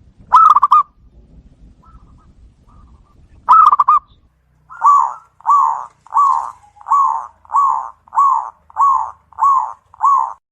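Zebra dove (perkutut) cooing. Two quick stuttering bursts of notes come first, then a run of nine evenly spaced coos about half a second apart.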